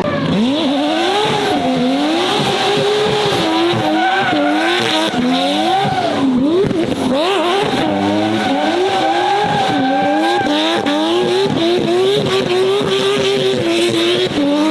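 A performance car's engine revving up and down over and over, its pitch rising and falling about once a second, while the tyres squeal and skid through a drift.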